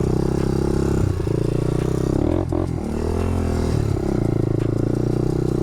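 Four-wheeler (ATV) engine running at low speed as it crawls over rocks. The engine note dips and shifts partway through, and a few knocks and scrapes of rock against the machine's underside come through.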